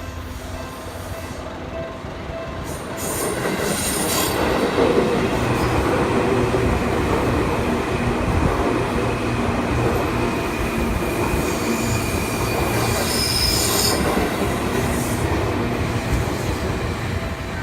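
Seibu Shinjuku Line electric commuter train passing over a level crossing: its noise swells about three seconds in and stays loud until just before the end.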